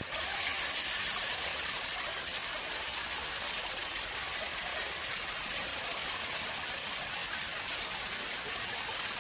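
Water running steadily into an artificial pond: a constant splashing hiss.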